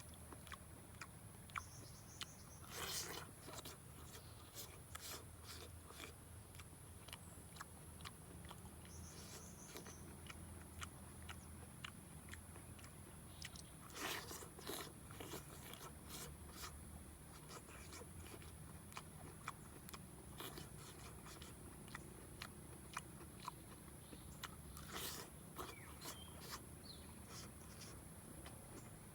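Person biting and chewing roasted food, with soft crunches, scrapes and small clicks throughout. A few louder bites come about 3, 14 and 25 seconds in, over a steady high hiss.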